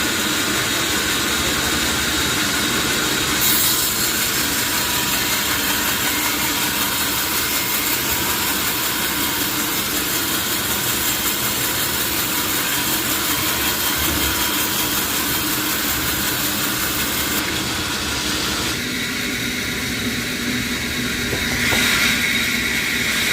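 Sawmill saw and machinery running steadily while cutting johar wood. A high hiss grows stronger a few seconds in and drops back about three-quarters of the way through.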